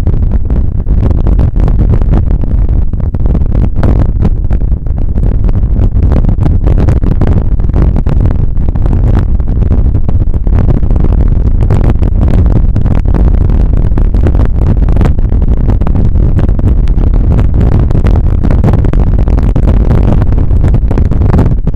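Heavy low rumble of wind and road buffeting on an action camera's microphone while riding a bicycle, broken by many quick knocks and rattles from bumps.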